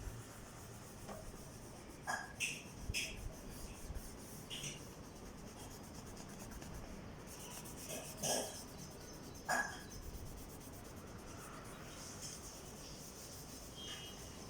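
Oil pastel scraping and rubbing on drawing paper: a few short, scratchy strokes scattered through, over a faint steady hiss.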